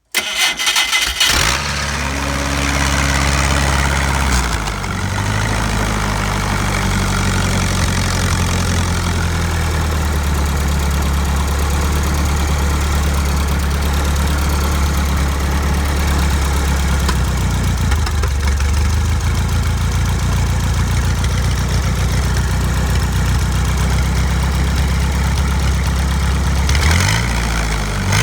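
Continental forklift engine cranking and catching within about a second and a half, on its first run after a carburetor overhaul. Its speed wavers for a few seconds, then it runs steadily through a custom exhaust, with a brief rise and fall in speed near the end.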